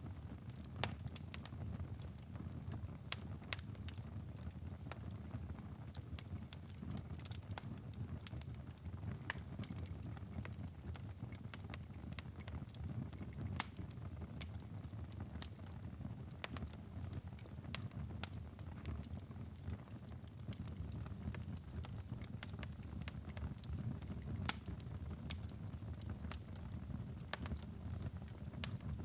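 Wood fire burning in a fireplace: a steady low rumble of flames with frequent small crackles and an occasional louder pop.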